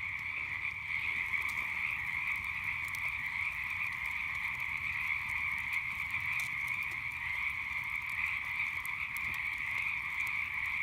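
Dense chorus of many frogs calling at night, a steady unbroken high trilling din, with a few faint pops from a crackling campfire.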